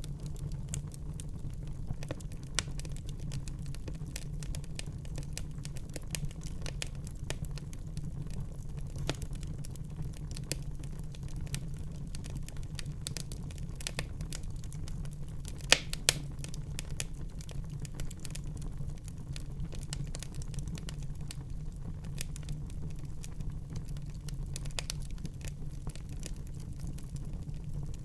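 Wood fire burning in a fireplace: a steady low rumble of the flames with frequent small crackles and snaps, and two louder pops a little past halfway.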